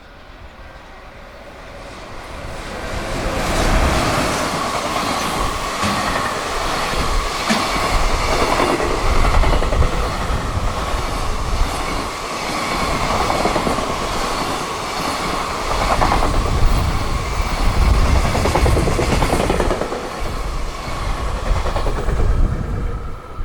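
JR Freight container train hauled by an EF210 electric locomotive passing at high speed, growing louder over the first few seconds as it nears. The wagons then keep up a steady loud rumble and clatter of wheels over the rail joints, which drops away near the end.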